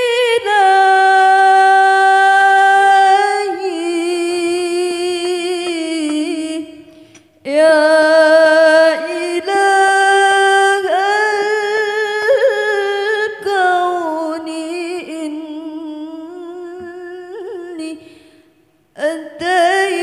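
A solo female voice singing long, melismatic Arabic sholawat phrases, unaccompanied, in three drawn-out phrases with short breaths between them.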